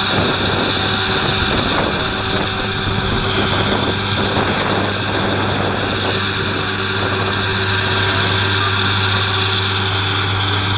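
New Holland T7.315's 6.7-litre six-cylinder diesel running steadily under load while its Kuhn triple disc mower conditioner works, a constant low engine hum under a steady high whine.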